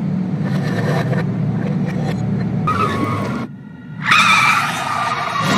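Film soundtrack played in reverse: a steady low rumble, then a short dip about three and a half seconds in, followed by louder reversed car-chase sound of car engines and high, drawn-out tyre-squeal tones.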